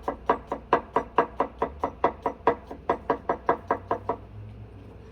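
Knife rapidly chopping garlic on a cutting board: quick, even strikes, about five a second, that stop about four seconds in.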